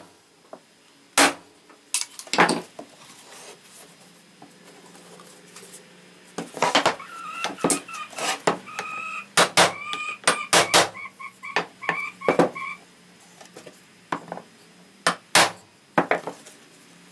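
Hammer striking a ball-peen hammer set on a brad head, tapping the brad flush into black walnut: sharp metal-on-metal knocks, a few spaced strikes at first, then a quick run of strikes with a ringing tone through the middle, and a few more near the end.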